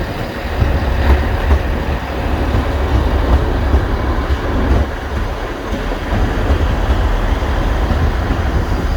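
A train moving along the track, a steady low rumble with wheel noise on the rails.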